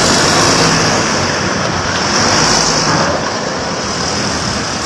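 Heavy diesel bus engine running steadily amid continuous vehicle noise, with a loud hiss over it.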